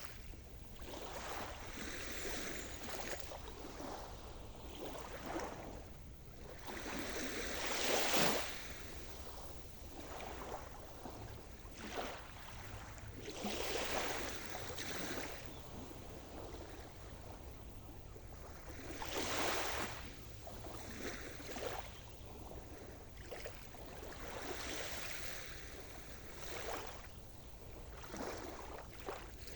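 Sea surf: waves breaking and washing in, swelling and falling in surges every few seconds, with the strongest ones about a quarter, half and two-thirds of the way through.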